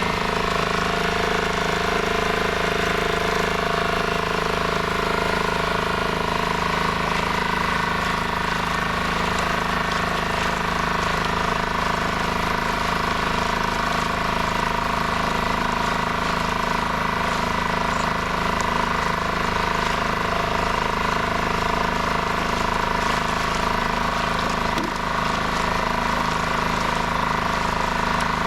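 A dinghy's outboard motor running at a steady speed while under way, a constant engine hum with a fast even pulse.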